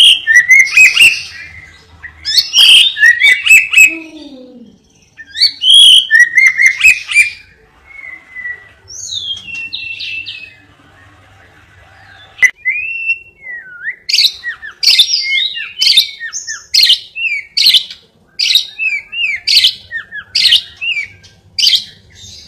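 Caged songbird singing in loud bursts of trills and chirps, and later a fast run of sharp, repeated notes, the kind of song used as master recordings for training other songbirds.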